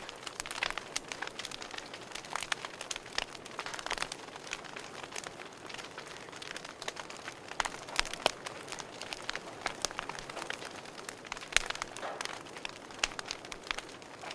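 Wood fire crackling in a fireplace: a steady soft hiss with frequent irregular sharp pops and snaps, a couple of louder pops in the middle.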